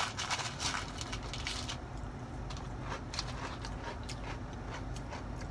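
Crunching and chewing on fried breaded shrimp and crisp fried batter bits, close to the microphone. The crisp crackles come thick in the first second or two, then thin out to scattered soft chewing clicks.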